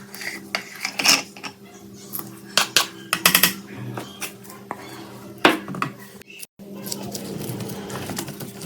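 Metal parts of a rusty exhaust fan and hand tools clinking and knocking against each other, a string of sharp irregular metallic clicks over a steady low hum.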